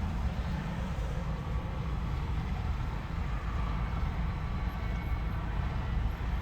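Steady low vehicle rumble with no break or distinct event.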